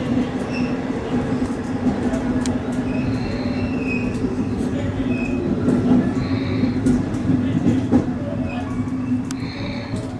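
Running noise of a JR West commuter electric train heard from inside its front car as it pulls out of a station: a steady low hum from the running gear and rails, with short high-pitched tones and sharp ticks now and then.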